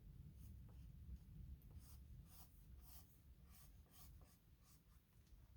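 Light gray oil pastel stroked across paper in short, faint scratchy strokes, several a second, over a low steady hum.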